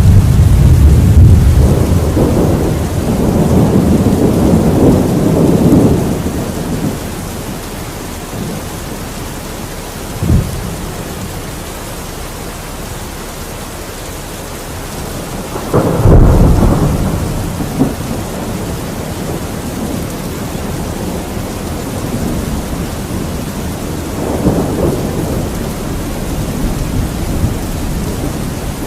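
Steady rain with thunder. A long low rumble fills the first six seconds, a short crack comes about ten seconds in, a sudden loud clap about sixteen seconds in rumbles away, and a softer rumble follows near the end.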